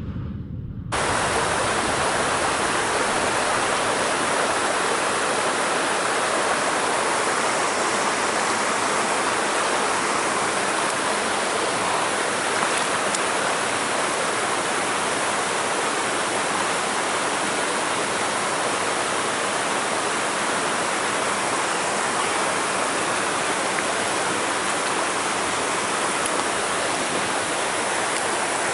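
Mountain stream water rushing in a steady, even hiss, starting abruptly about a second in.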